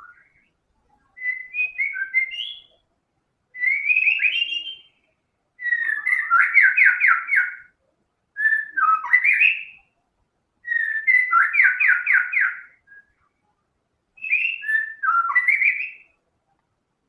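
White-rumped shama singing: six loud whistled phrases with short pauses between them, some gliding up and down and two built of fast repeated notes.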